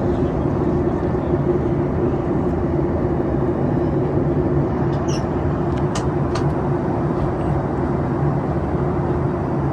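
Steady cabin noise of a Boeing 737 MAX with CFM LEAP-1B engines in flight: a constant rush of air with a low, even engine hum. A few faint clicks come about halfway through.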